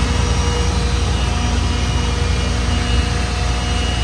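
A pulling tractor's diesel engine running loud and steady, with a thin, steady whine above the rumble.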